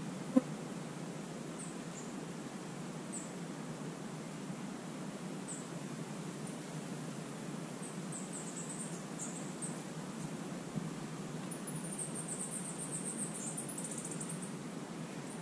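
Small birds chirping in short, thin, high-pitched calls, with a fast chattering run about twelve seconds in, over a steady outdoor hiss. A single sharp knock sounds just after the start.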